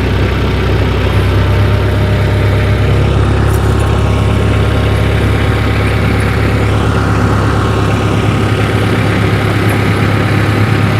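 Tractor engine running steadily at low speed as the tractor creeps forward to draw a snow chain over the tyre.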